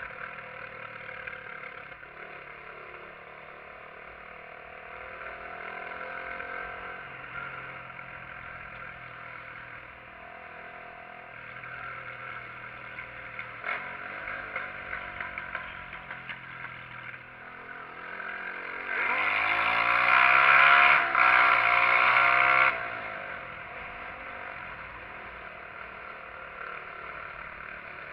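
SYM XS125-K motorcycle engine running on the move, its pitch rising and falling with throttle and gear changes. About two-thirds of the way through, a loud rushing noise swells for about four seconds and cuts off suddenly.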